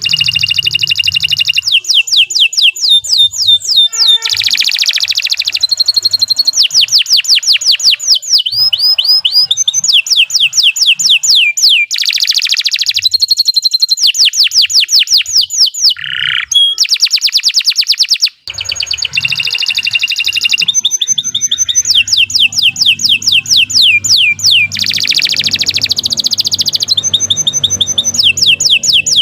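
Domestic canary singing a long, continuous song of fast trills and rolls, each a rapid run of repeated high notes, with one brief break partway through.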